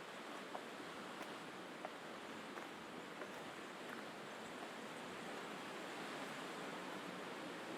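Faint, steady wash of sea surf on a rocky Mediterranean shore, with light regular ticks about every two-thirds of a second through the first half.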